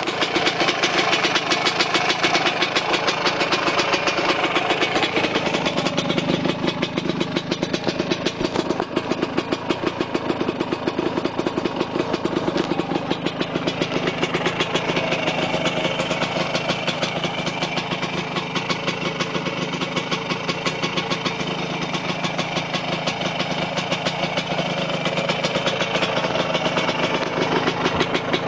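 Tomos ATX's small single-cylinder two-stroke engine idling steadily after a cold start, its firing rhythm wavering slightly in speed as it warms.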